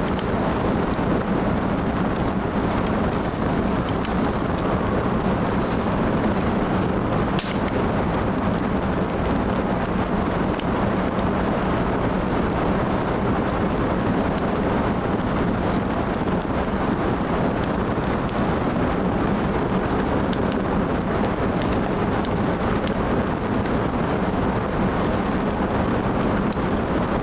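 Firewood burning: a steady rushing hiss with scattered small crackles and pops, one sharper pop about seven seconds in.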